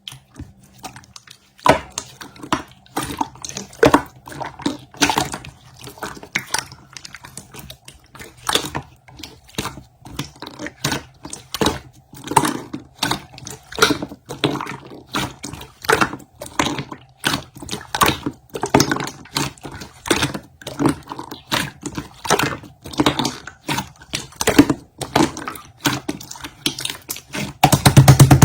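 Rapid, irregular sharp clicks and taps, several a second, with a wet edge, and one loud knock at the end.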